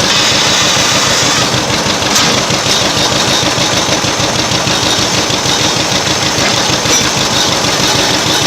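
Old engine running steadily and loud, with a quick, even firing beat.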